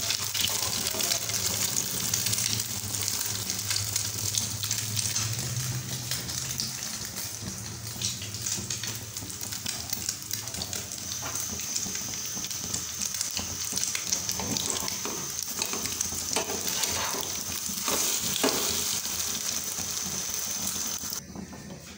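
Egg-dipped bread slices frying in oil in a nonstick pan, with a steady sizzle and crackle. The sizzle stops abruptly just before the end.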